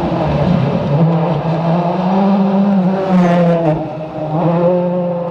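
Rally car engine revving hard under load, its pitch climbing and dropping back several times as the driver works the throttle and gears.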